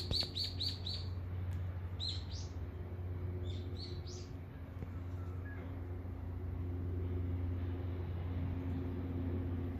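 Songbird chirping: a quick run of repeated high notes in the first second, then two short bursts about two and four seconds in. A steady low rumble runs underneath throughout.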